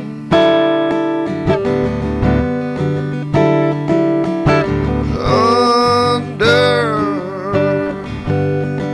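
Acoustic guitar strummed in an even rhythm, each chord left ringing, with a singing voice holding a line without clear words for a couple of seconds about five seconds in.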